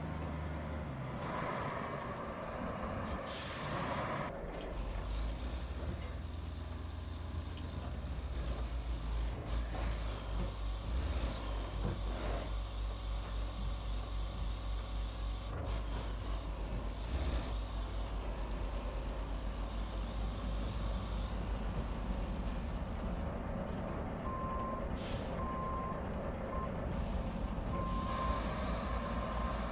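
Heavy truck diesel engine running under load with a deep, pulsing rumble. There is a short burst of air hiss about three seconds in, and a reversing beeper sounds in the last few seconds.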